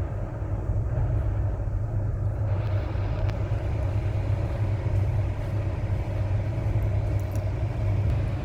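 Steady low running rumble of a moving passenger train, heard from inside the carriage.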